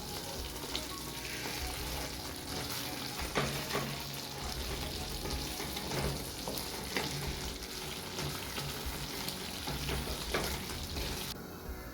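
Chicken curry in cream sauce sizzling and simmering in the pan, with a few clicks and knocks of a spoon stirring in the pot. The high sizzle drops away suddenly near the end.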